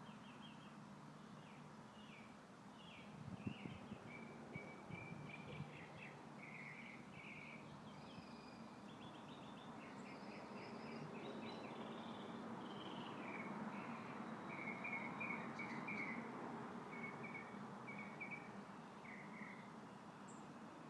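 Songbirds singing faintly in a steady run of short chirps and quick trills over a soft, even wash of breeze.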